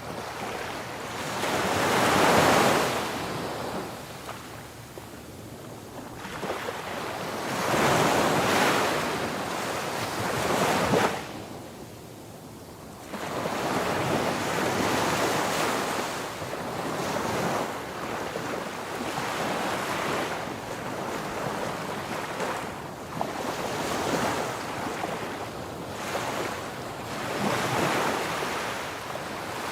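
Sea waves washing onto a beach, the surf swelling and fading every few seconds, with wind buffeting the microphone.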